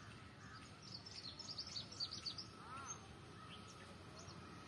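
Small birds chirping in quick, high-pitched notes, thickest in the middle, with a lower rising-and-falling call about three seconds in.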